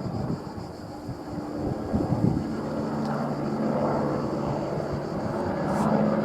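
Airbus AS350 single-turbine helicopter in flight, its rotor and engine making a low rumble that settles into a steady drone about two and a half seconds in.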